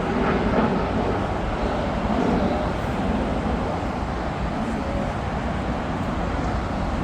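Steady rumble of jet aircraft engines, easing slightly after about two seconds.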